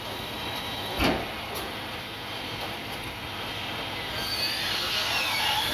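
A single loud metal bang about a second in, then a high, wavering squeal of metal on metal over a steady machinery rumble near the end.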